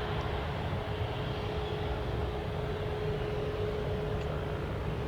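Jet airliner engine noise: a steady rumble with a constant droning tone held throughout.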